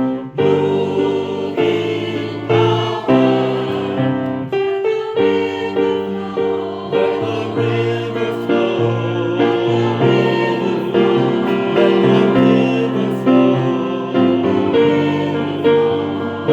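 Choir singing a worship song, with piano or keyboard accompaniment.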